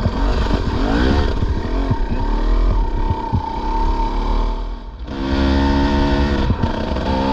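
Dirt bike engine revving up and down as it is ridden along a trail, the pitch sweeping with the throttle, then a brief drop about five seconds in before it pulls again at a steadier, higher note.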